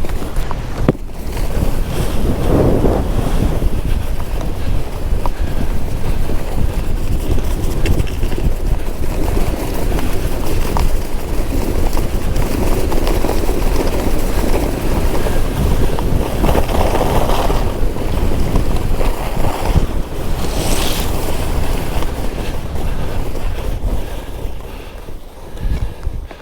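Loud wind noise buffeting the microphone during a fast downhill ski run, with the rushing hiss of skis through powder snow swelling a few times.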